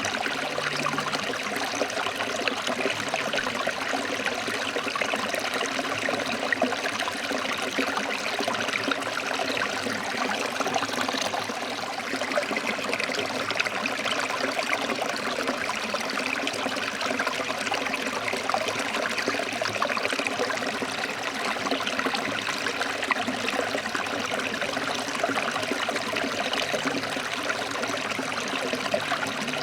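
Forest stream running over rocks: a steady, unbroken rush of water with fine splashing and trickling.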